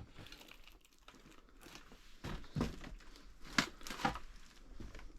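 Irregular crinkling and crunching of loose debris, with a few sharper crunches a little past the middle.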